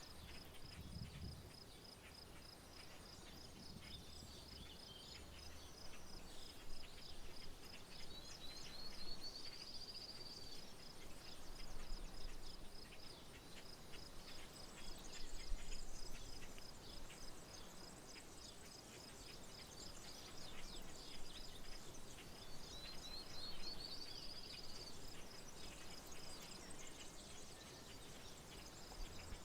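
Open-country soundscape: an insect trills in a steady, evenly pulsed chirping. A bird sings a short rising trilled phrase twice, about a third of the way in and again later, among scattered short high calls. A few low rumbles come and go, the loudest about halfway through.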